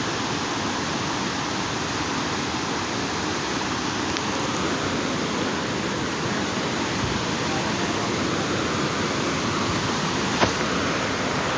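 Waterfall water rushing in a steady, even roar of noise, with one short sharp click about ten seconds in.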